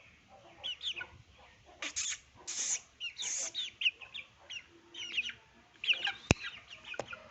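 Parrot chicks calling: many short squeaky chirps with three harsh, rasping squawks about two to three and a half seconds in, and a single sharp click a little after six seconds.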